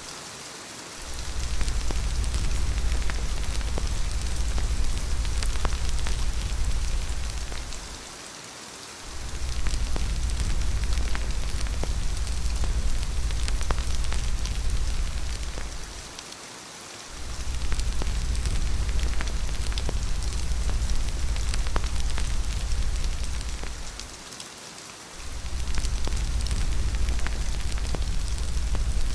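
Steady rain with scattered crackles and drips, over a deep low rumble that fades out for about a second roughly every eight seconds.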